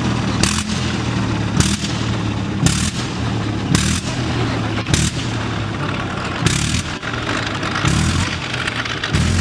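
Old radial aircraft engine on a hand-propped cold start, running roughly with a sharp crack about once a second as it struggles to keep going.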